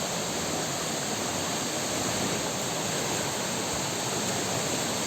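Steady rushing of a river's flowing water, an even noise with no breaks.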